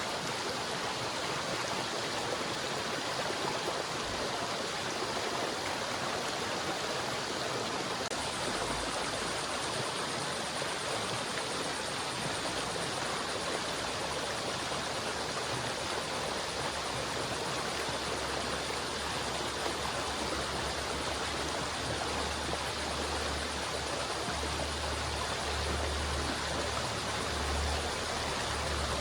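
Flowing river water rushing steadily. A low rumble comes in underneath about two-thirds of the way through.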